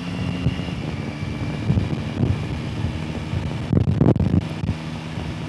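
Yamaha Tracer 9 GT's three-cylinder engine running at a steady cruise, with wind rushing over the microphone. A cluster of louder thumps comes about four seconds in.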